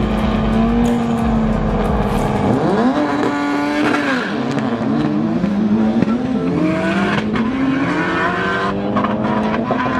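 Car engine revving hard, its pitch holding steady, then climbing sharply about three seconds in and rising and falling several more times.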